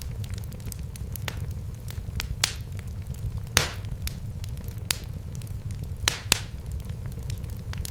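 Fire in a fireplace crackling: sharp pops at irregular intervals, a few louder ones about a second apart, over a steady low rumble of the flames.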